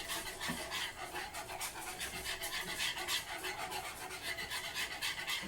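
A spoon stirring a thick cream sauce in a pan, with repeated swishing and scraping strokes, a few each second.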